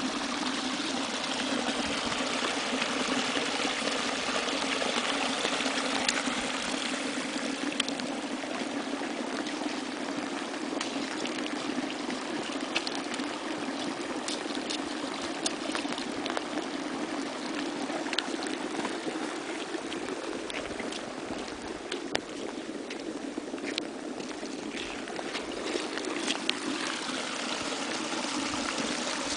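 Torrential rain: a steady hiss of water falling and running, with many sharp drips and splashes scattered through it.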